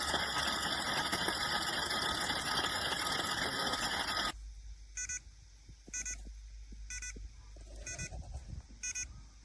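A steady, loud hissing whine that cuts off suddenly about four seconds in, followed by short electronic beeps about once a second, five in all.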